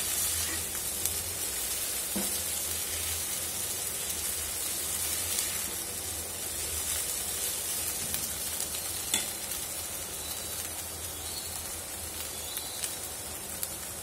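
Soaked puffed rice and vegetables sizzling in a hot nonstick kadai as they are stirred and tossed with a silicone spatula: a steady frying hiss with a couple of light knocks.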